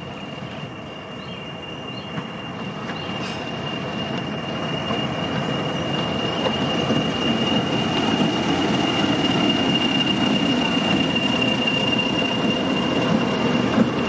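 Diesel-hauled train approaching and growing steadily louder, its rumble rising, with a steady high-pitched wheel squeal held throughout.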